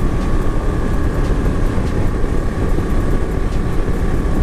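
Motorcycle cruising at steady speed, its engine note held even under heavy wind rush buffeting the onboard microphone.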